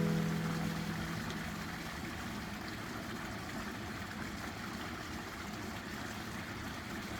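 Steady wash of running water, a field recording left under the edit; the last chord of an acoustic guitar song rings out and fades during the first two seconds.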